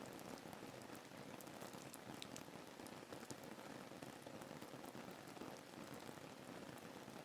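Faint, steady rain, with scattered ticks of single drops.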